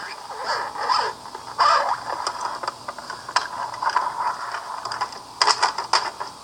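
Broken plastic See 'n Say toy being handled: plastic parts rattling and scraping, with scattered clicks and a busy run of clicking near the end.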